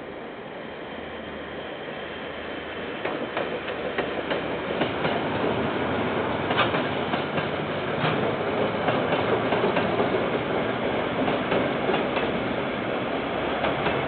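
Container freight train passing on the rail line, growing louder over the first few seconds and then holding steady. Through it run many sharp clicks and clacks of the wagons' wheels over the rails.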